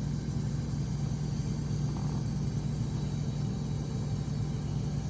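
A steady low engine drone: a vehicle or machine engine idling evenly.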